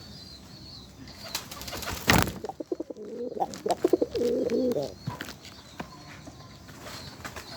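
Domestic pigeon cooing, a stepped run of low coos about three to five seconds in, after a sharp loud rustle about two seconds in.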